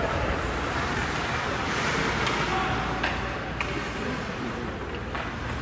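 Ice hockey rink ambience during a game: a steady wash of arena noise with distant voices, broken by a few sharp knocks, one about three seconds in, another half a second later and one near the end.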